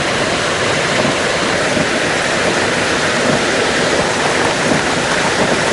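Water rushing steadily out through the open spill gates of a reservoir, a loud, even torrent of spilling water.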